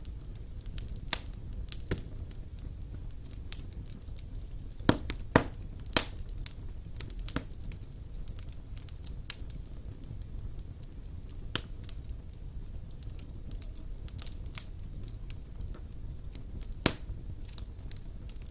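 Wood fire burning in a fireplace: a steady low rumble of flames with irregular sharp crackles and pops of the burning logs, the loudest few about five to six seconds in and again near the end.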